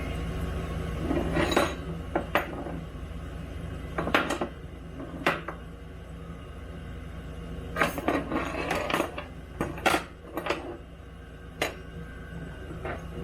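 Metal pieces clinking and clanking against each other in sharp, separate knocks at uneven intervals, with a quick cluster of them in the second half, over a steady low hum.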